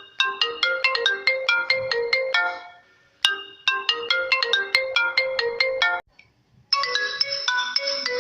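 Marimba-style phone ringtone melody: a short phrase of quick struck notes plays twice, each time fading into a brief gap. After a moment of silence near the end, a fuller, denser passage of the tune comes in.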